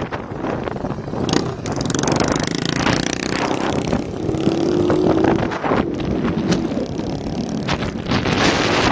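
Motorcycles with open, muffler-less exhausts running while riding, their engine note held steady through the middle, under heavy wind noise on the microphone.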